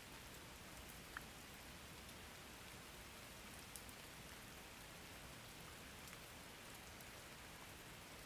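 Faint, steady rain falling, an even hiss with a couple of single drop ticks.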